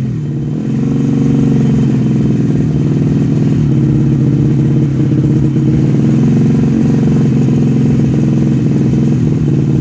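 Grasstrack racing motorcycle engine running loud and steady, its pitch dipping briefly a few times as the throttle eases and opens again.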